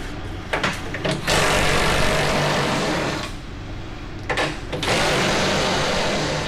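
DeWalt cordless impact wrench hammering on a truck's 21 mm bumper bolts in two runs of about two seconds and a second and a half, with short clicks between them.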